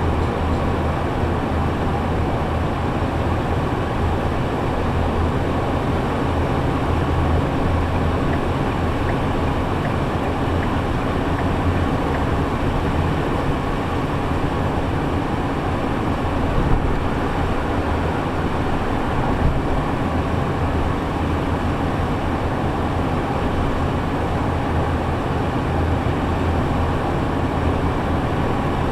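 Steady low drone of engine and road noise inside a shuttle bus on the move, with a strong low hum and no change in pace.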